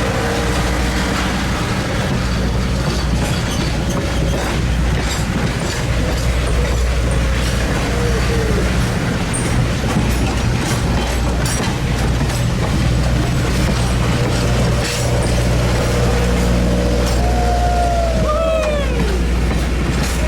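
A train running past close by, its wheels clicking over the rail joints over a steady low rumble. Near the end come a few short squeals that slide down in pitch.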